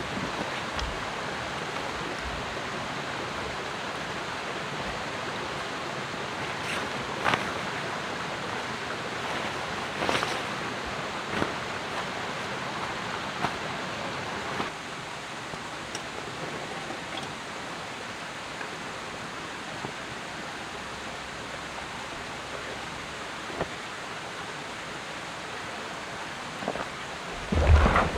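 Steady outdoor rushing noise with a few scattered light knocks, a little quieter after about halfway, and a louder knock just before the end.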